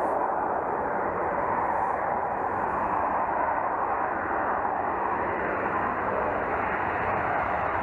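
Jet aircraft engine running: a steady rushing noise that holds at one level without change.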